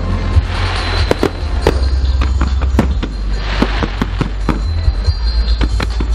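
A fireworks display: a rapid, irregular series of sharp bangs with crackling in between, over a heavy low rumble.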